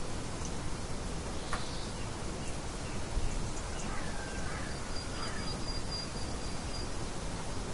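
Steady hiss of light wind with faint birds chirping now and then. A thin, high, even trill runs for about two seconds past the middle.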